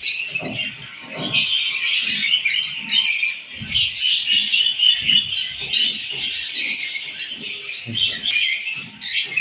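Many small aviary birds chirping together in a steady, dense chorus, with short low knocks and rustles scattered through it.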